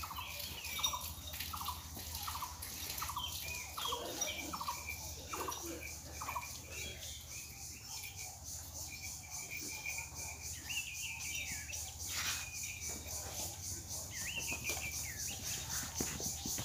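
Birds calling in a rural yard: a run of short, repeated falling calls about twice a second for the first few seconds, then scattered chirps. Under them runs a steady, pulsing high insect buzz.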